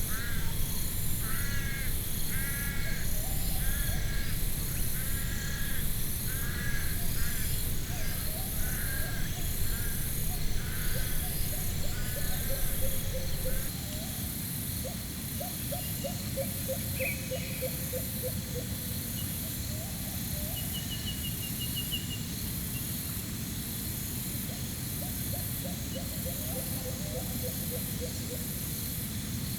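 Crows cawing over and over, about once a second, for the first dozen seconds, over low wind rumble that drops away about halfway through. After that come lower trilling bird calls, over a high, rhythmic pulsing chirp throughout.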